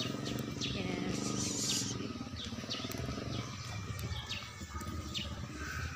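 Small birds chirping in short high notes every half second or so over a steady low rumble.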